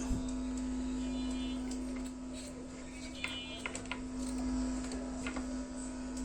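Steady mains hum from a 16-transistor power amplifier board coming through a 16-inch speaker with no signal playing, with a few faint clicks over it. The hum comes from the volume control not yet being fitted.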